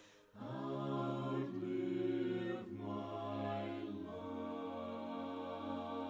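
A cappella voices singing slow, sustained chords in harmony, the chord changing about every second.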